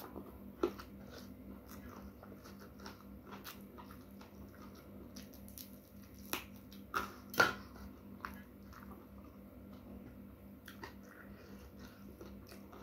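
Close-miked eating: a person chewing a mouthful of rice and side dishes, with many small wet mouth clicks and smacks and a few sharper, louder ones about six to seven and a half seconds in.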